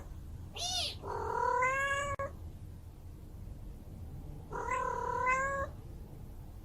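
Kitten meowing: a short high call, then two longer meows a couple of seconds apart, over a faint low background hum.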